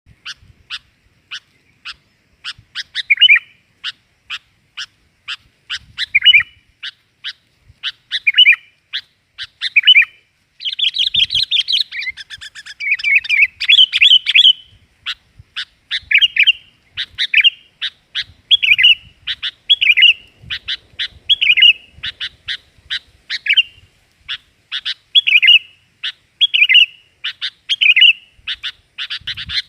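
Sooty-headed bulbul calls used as a trapping lure: sharp chip notes repeated about twice a second, broken every second or two by short warbled phrases. About a third of the way in there is a dense spell of chattering.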